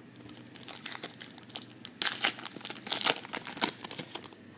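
Plastic wrapper of a trading card pack being torn open and crinkled, a run of sharp crackles that is loudest about two seconds in and again about three seconds in.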